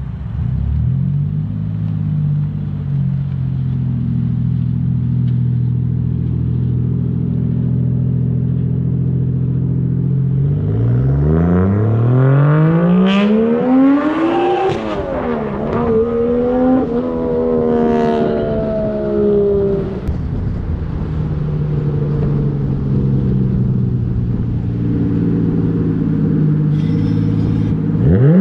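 A car engine idling steadily, then revved up and down several times for about ten seconds before settling back to idle, with another rev starting near the end.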